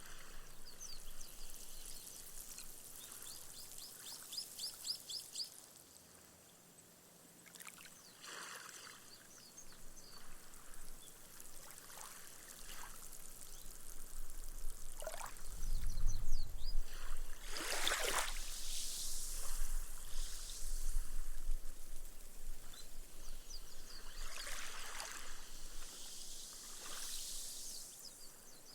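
Small, gentle waves washing up a sand beach, the water hissing and fizzing as it sinks into the sand and the foam bursts. Several washes swell and fade, the largest a little past halfway with a soft low thud as it comes in.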